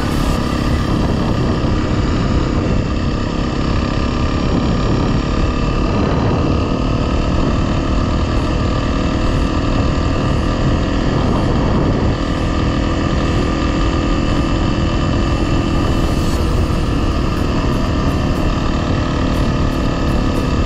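Honda CRF dual-sport motorcycle's single-cylinder engine running at a steady speed while riding, with wind noise.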